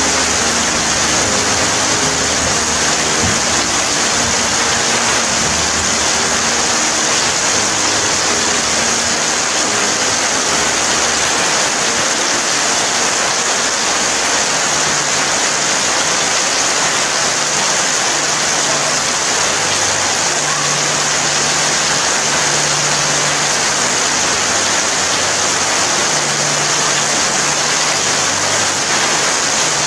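Steady rain falling, an even, unbroken hiss with no single drops or thunder standing out. Faint, soft low tones sit underneath.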